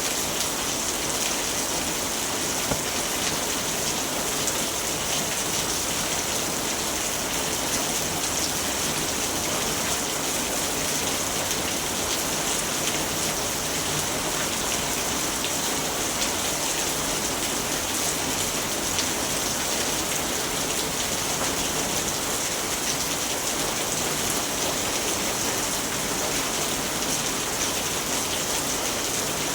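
Steady rainfall: an even hiss of rain with a fine patter of individual drops, unchanging in level throughout.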